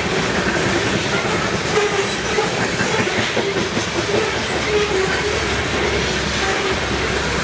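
A train rolling past: steady wheel-on-rail noise with clickety-clack over the rail joints and short, wavering wheel squeals.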